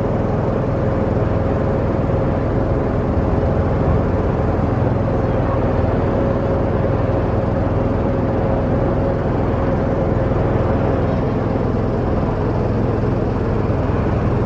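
Boat engine running steadily under way, with a steady hum in it that fades about eleven seconds in.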